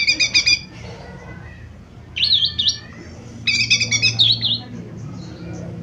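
Cucak ijo mini, a small leafbird, singing in three quick bursts of chirps and swooping whistles that dip and rise. A faint low hum runs beneath.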